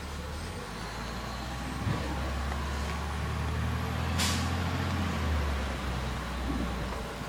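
Garbage truck engine running steadily, with a short, sharp hiss of released air about four seconds in.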